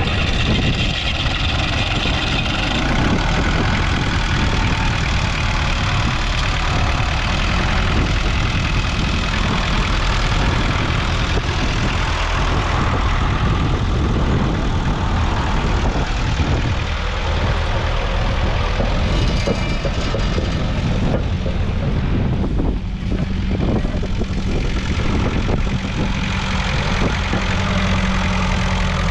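1967 Massey Ferguson 130's 1.8-litre four-cylinder diesel engine running steadily, with a low continuous rumble. A steadier low hum comes in about two-thirds of the way through.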